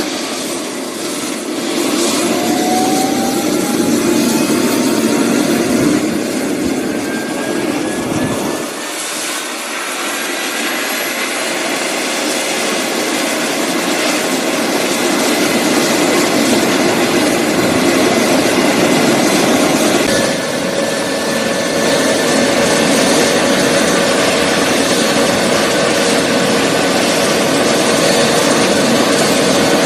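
Medical helicopter's turbine engines and rotor running loud and steady, with a turbine whine that rises in pitch over the first ten seconds or so. About twenty seconds in, the tone shifts and settles at a new steady pitch.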